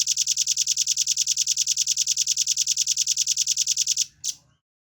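Velvet-fronted nuthatch singing a fast, tightly spaced trill of high, evenly repeated notes, about a dozen a second. It stops abruptly about four seconds in, and one short single note follows.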